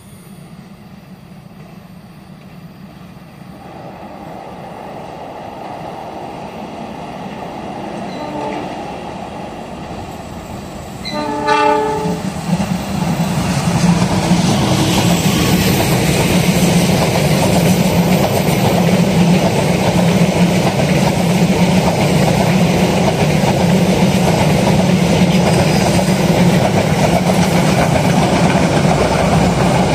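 A passenger train approaching on the railway line and sounding its horn, a short blast and then a clearer one about three seconds later. It then runs past with a loud, steady rumble of engine and wheels on the rails.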